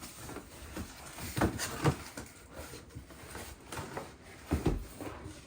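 Handling noises: a few soft knocks and light rustling, the loudest knocks about one and a half and two seconds in and again near the end.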